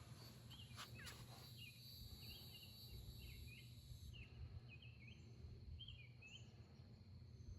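Near silence with faint outdoor ambience. Faint short chirps repeat every half second or so, and there are a couple of light clicks in the first second and a half.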